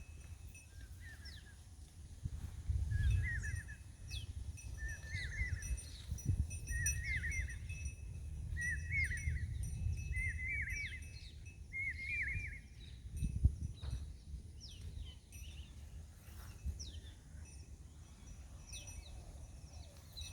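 A songbird repeating a short warbled phrase about every second and a half, growing louder and then stopping about twelve seconds in, while other birds give thin, falling high whistles throughout. A low rumble runs underneath.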